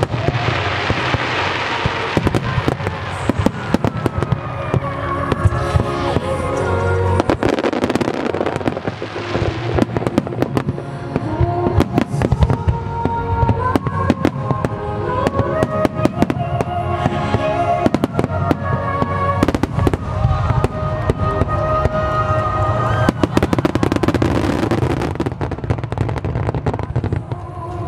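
Large aerial fireworks in a continuous starmine barrage: rapid, overlapping bangs and crackling bursts throughout. Under them a slow sung ballad plays along with the show.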